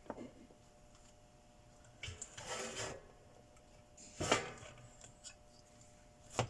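Parts and tools being handled on a workbench: a scraping rub about two seconds in, then a sharp knock a little after four seconds, a light click, and another knock near the end.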